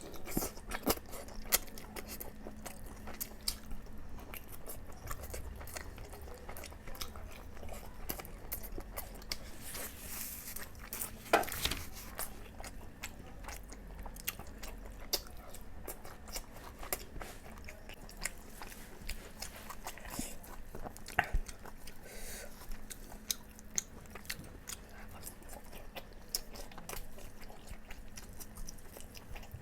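Close-miked eating: a person chewing and biting through boiled eggs and chicken curry, with many irregular wet smacks and clicks and a few sharper bites.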